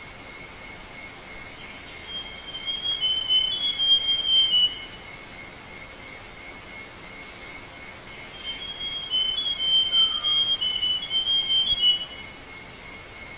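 Forest scrub-robin (Cercotrichas leucosticta) singing two varied phrases of clear, up-and-down whistled notes, a few seconds apart. Under them runs a steady high-pitched drone, like insects.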